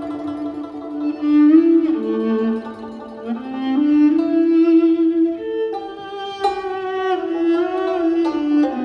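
A 5-string viola playing a slow bowed melody in Nanyin style, sliding between held notes, with other instruments of the Nanyin ensemble sounding alongside.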